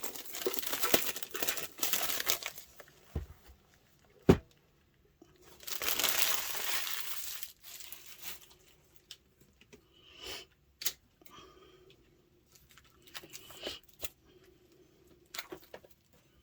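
Packaging being unwrapped by hand: wrapping tearing and crinkling in two long stretches, with one sharp snap about four seconds in and scattered lighter rustles and clicks toward the end.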